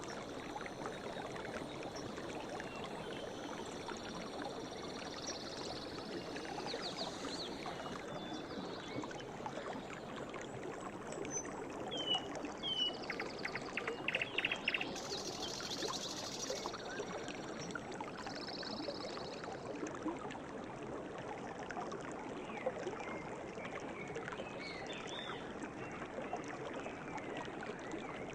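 A river or stream flowing steadily, with birds chirping briefly over it now and then, most busily in the middle.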